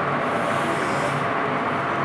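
Magnetic drilling machine running, a steady mechanical noise with a low hum.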